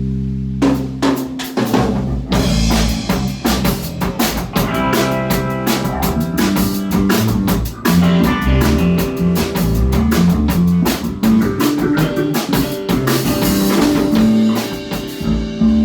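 Live rock band playing: a drum kit keeping a steady beat with bass drum and rimshots, under electric bass and guitar.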